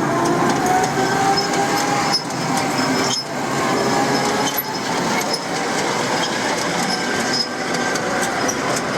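Man'yōsen tram running along its track with a steady rumble. A faint whine rises slightly in pitch over the first few seconds, and there are a few sharp clicks.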